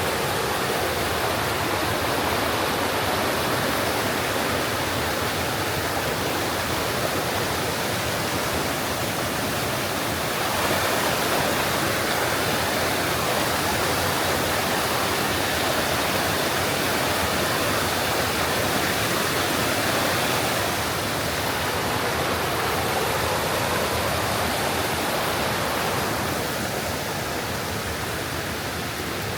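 Rushing water of a waterfall on a mountain stream, a steady roar of falling water. It grows slightly louder about a third of the way through and eases off a little near the end.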